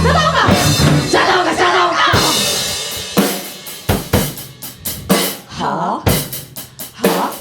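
Live punk rock band ending a song: the full band rings out for about two seconds and fades, then loose, separate drum kit hits follow, snare, bass drum and cymbal strokes with gaps between them.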